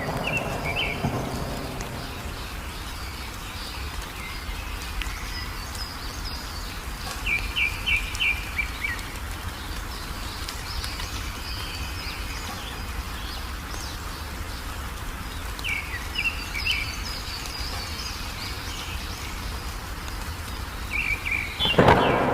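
Songbirds chirping in short clusters of quick repeated notes, plus scattered higher chirps, over steady rain. A thunder rumble fades out at the start and another begins near the end.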